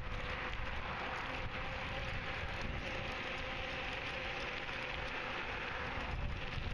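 Bicycle riding along a trail, heard from a handlebar-mounted camera: a steady rush of wind and tyre noise over a low rumble. A few light clicks come from the camera rattling in its mount under the bike's vibration.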